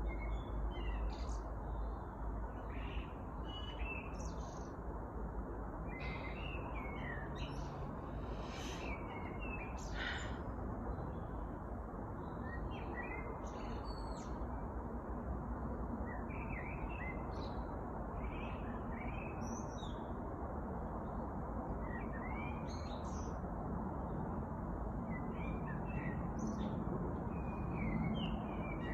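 Several small songbirds chirping and singing in short, scattered phrases, over a steady background hiss.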